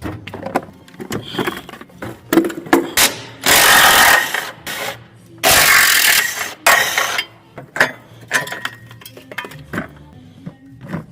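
Mechanic's tools at work on a car transmission: scattered clicks and clanks, and two loud bursts of a power tool, each a second or so long, about four and six seconds in. Background music plays throughout.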